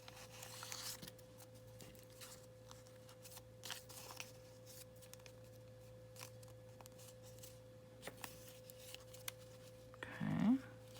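Faint rustles and small clicks of paper and card being handled as pages are lined up in a matchbook journal, over a steady low hum. A brief spoken "okay" comes near the end.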